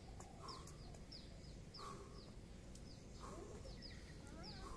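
Faint birdsong: a bird repeating a short, high, falling chirp about twice a second, with a few lower wavering calls among them.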